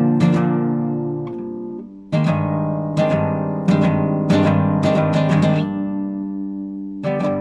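Classical guitar played solo, improvising: plucked and strummed chords whose notes ring and fade. The sound dips briefly about two seconds in before a new chord, and another chord comes in near the end.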